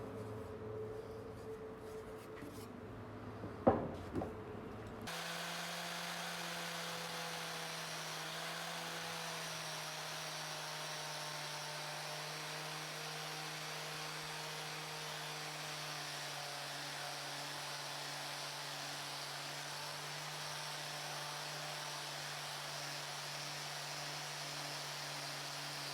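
A sharp knock just before four seconds in, then an electric power tool starts up suddenly at about five seconds and runs steadily with an even hum and hiss.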